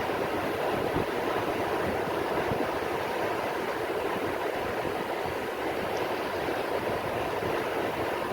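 Rain falling on the sea: a steady, dense hiss with no breaks or surges.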